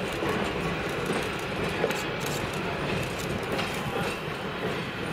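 A train hauled by steam locomotive 3025 rolling along the track: a steady rumble with scattered clicks.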